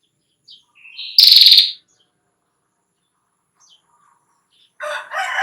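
Female prenjak klawu (a prinia) giving a few soft chirps, then a loud, very fast rattling trill (its ngetir call) lasting about half a second. Near the end a rooster starts to crow.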